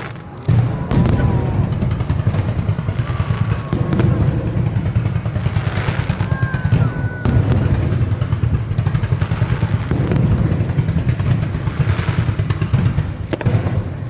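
Fireworks display in full barrage: booms running together into a continuous rumble, with sharp cracks and bangs throughout.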